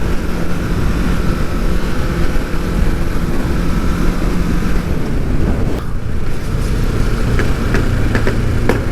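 Kawasaki motorcycle engine running at a steady cruise under a rush of wind noise. About six seconds in, the engine note drops lower and the wind eases as the bike slows, and a few short clicks follow near the end.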